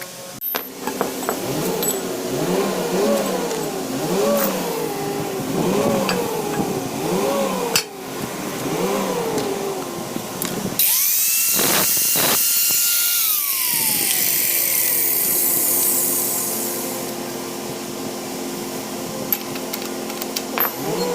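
A motor-driven power tool whose pitch rises and falls about every second and a half, then a loud hiss about halfway through while a tone slowly winds down.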